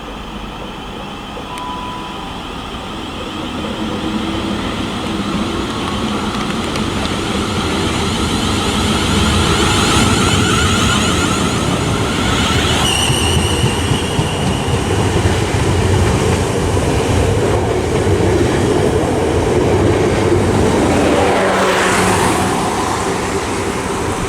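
South Western Railway Class 444 Desiro electric multiple unit pulling away from the platform, its running noise growing louder over the first ten seconds and then holding steady.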